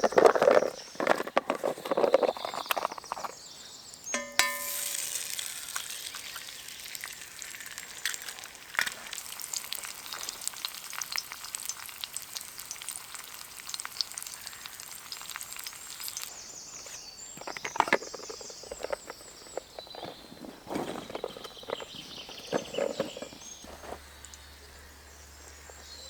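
Food frying in a pan over a campfire: a hissing, crackling sizzle that starts after a metallic knock about four seconds in and fades after about twelve seconds. Clattering as the pan and utensils are handled comes before and after it.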